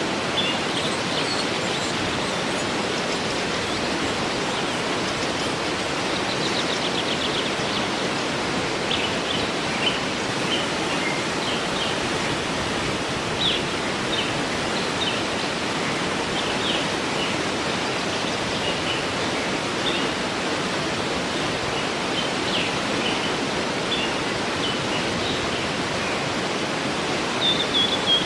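Waterfall rushing steadily, with songbirds chirping now and then over it: short high chirps, a quick trill about six seconds in, and a falling call near the end.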